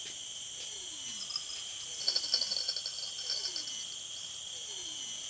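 Night chorus of crickets and other insects, a steady high trilling, with a brief burst of high chirps about two seconds in and a few faint falling calls underneath.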